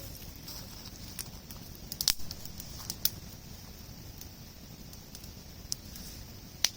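Wood campfire burning, crackling with a handful of sharp pops over a steady low rush of flame; the loudest pops come about two seconds in and near the end.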